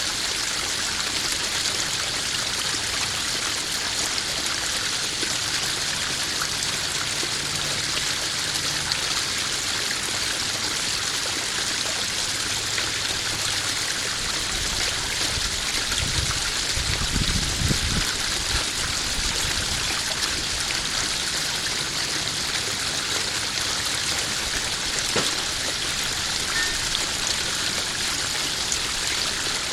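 Steady splashing and trickling of a small garden waterfall falling into a koi pond. A low rumble swells briefly about halfway through.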